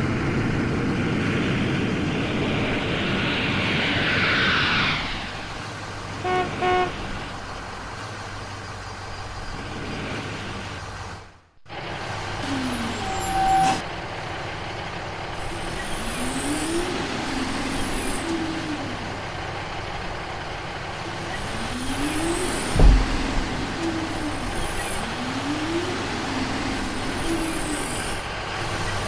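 Cartoon vehicle sound effects. A truck engine runs with a falling whoosh, followed by two short horn toots. After a brief silent cut comes a short beep, then an excavator's whine that rises and falls over and over, with one heavy thud about two-thirds of the way through.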